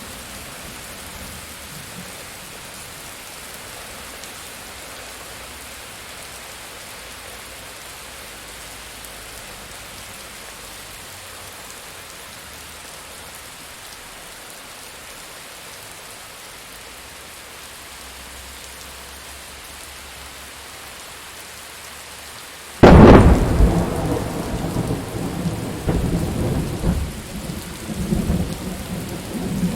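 Steady rain falling, and then, a little over three quarters of the way in, a sudden loud thunderclap that breaks into a rolling rumble of thunder lasting to the end.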